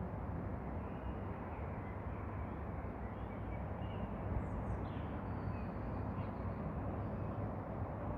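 Outdoor ambience: a steady low rumble of background noise, with a few faint, short bird calls near the middle.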